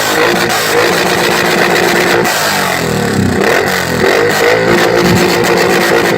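Suzuki Boulevard M109R's big V-twin revved repeatedly through its exhaust, the engine note rising and falling.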